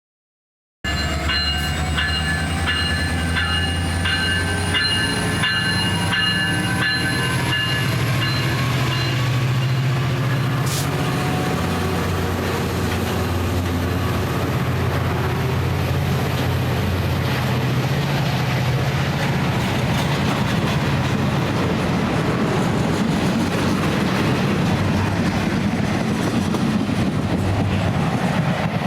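Caltrain train running with a steady low rumble. A high whine slowly rises over the first ten seconds, and a rapidly repeated ringing sounds until about nine seconds in.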